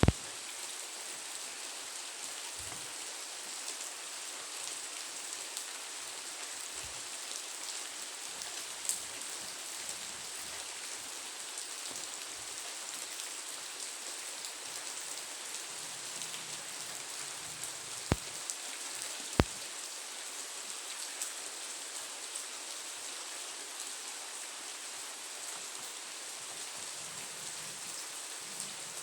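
Steady rain falling, an even hiss throughout, with a few sharp ticks of drops striking something, the two loudest close together about two-thirds of the way through.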